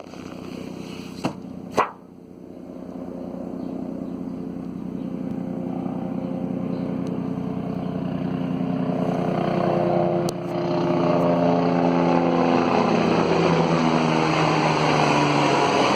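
Helicopter flying low overhead, its rotor and engine drone growing steadily louder, with the pitch sliding slowly downward in the second half as it passes. Two sharp clicks sound near the start.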